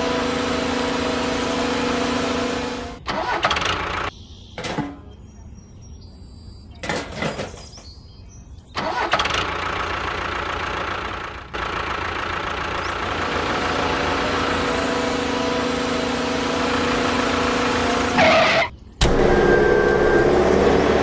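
A small engine or motor running steadily with an even hum, broken by abrupt cuts. A quieter stretch in the middle holds a few sharp knocks.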